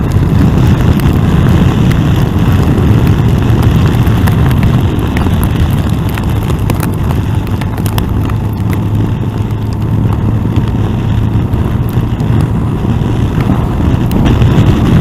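Yamaha FJR1300 motorcycle at riding speed: a steady rumble of wind and engine, with many sharp ticks of rain and hail striking the rider and camera.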